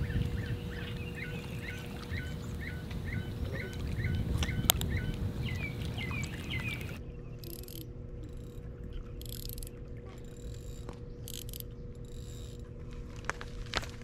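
A bird calling over and over in short chirps, about two to three a second, over a low outdoor rumble of wind and water. About halfway through the chirping and rumble stop, leaving softer scattered hissy rustles and a couple of sharp clicks near the end.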